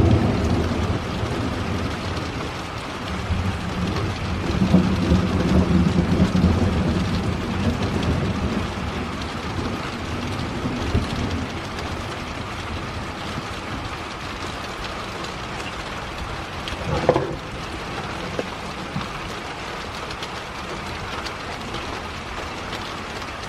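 Steady rain with a long, rolling rumble of thunder that swells over the first several seconds and then fades back into the rain.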